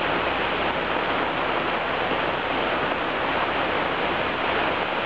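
Heavy rain pouring down, a steady, even rush of noise.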